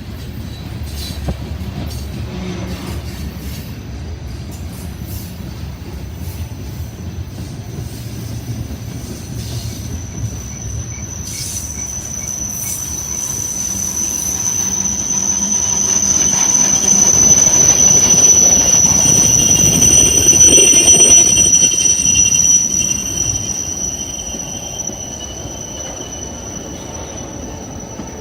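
Freight train cars rolling past with a steady rumble. From about twelve seconds in, a high-pitched steady metallic squeal rises over it. The sound swells to its loudest about two-thirds of the way through, then fades.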